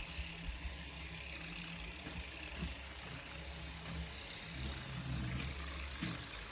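A snowblower's engine running steadily, a low hum with no sharp events.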